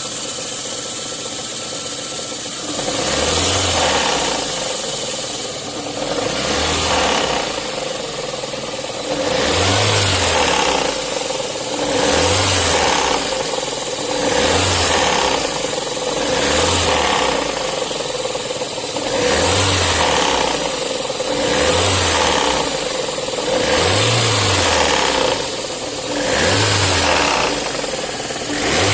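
VAZ eight-valve four-cylinder engine idling and being blipped about every two to three seconds, with a knock in the engine. The knock is traced to the sheared key of the crankshaft pulley damper, which let the damper turn on the shaft and beat at one spot.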